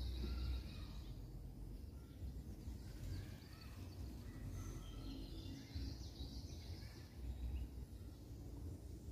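Faint bird chirps, short and high, scattered over a low steady outdoor rumble.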